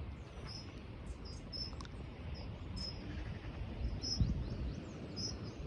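Small migrating finches giving short, thin, high flight calls, about two a second.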